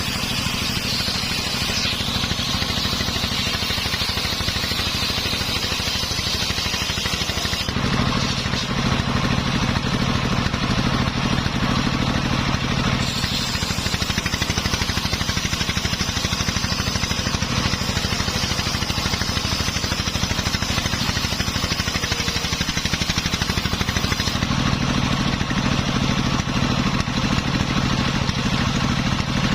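Engine-driven homemade circular saw running steadily while its blade cuts coconut-palm wood, with a high hissing cutting noise over the engine. The cutting noise drops out about a quarter of the way in, comes back, and drops out again near the end, leaving the engine running alone.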